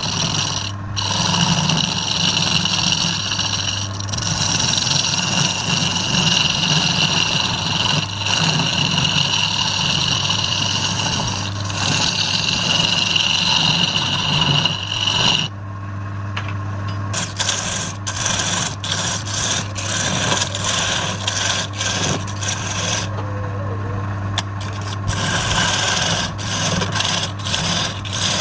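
Wood lathe running with a steady motor hum while a tool scrapes against the spinning wood. The scraping is continuous for about half the time, breaks off about halfway through, and then comes back in short strokes.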